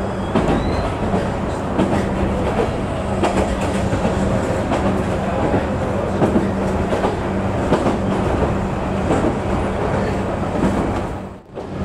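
Passenger train running along the line, heard from inside the carriage: a steady rumble with a low hum and wheels clicking over the rails. The sound briefly drops out near the end.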